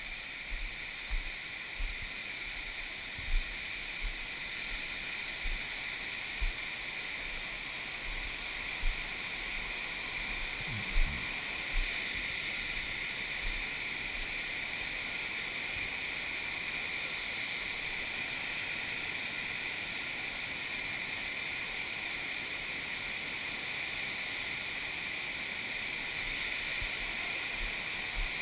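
Steady rush of water falling over a creek waterfall, with a few short low thumps over the first dozen seconds.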